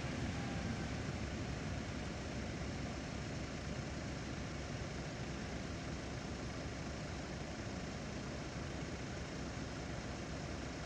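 Steady low rumble of car engines idling at a closed level crossing.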